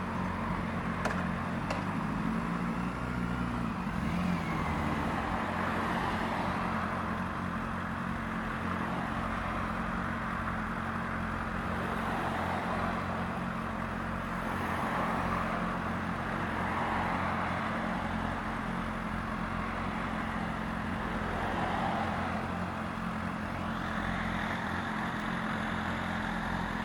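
Honda Fireblade's inline-four engine idling steadily through an aftermarket Yoshimura exhaust, with a slight rise and fall in pitch about three seconds in.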